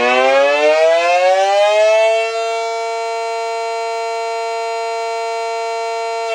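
Miniature ACA Cyclone 125 siren winding up, its wail rising in pitch for about two seconds, then holding steady at full pitch.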